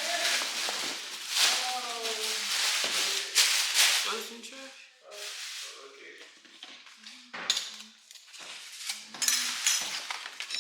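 Rustling and clatter of takeout food containers and serving utensils as plates are dished up, with voices talking quietly in the background.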